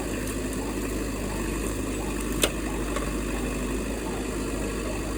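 An engine running steadily at idle, with one sharp click about halfway through.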